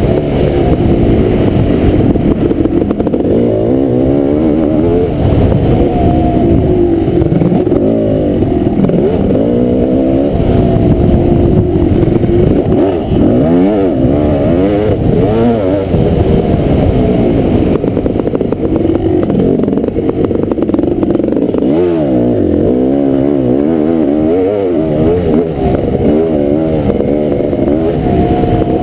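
Kawasaki KX500 two-stroke single-cylinder motocross engine racing, its revs rising and falling continuously with throttle and gear changes.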